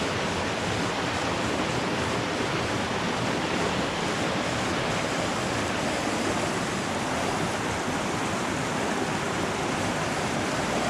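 Creek water rushing through a narrow rocky slot canyon, with a small waterfall close by: a steady, even rush with no breaks.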